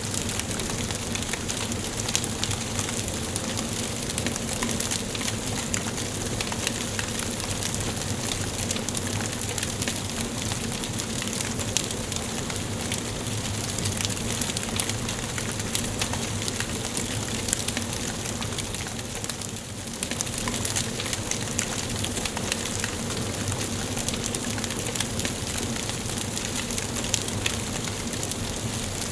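Wood fire burning in a fireplace: a steady hiss with frequent small crackles and pops, briefly quieter about two-thirds of the way through.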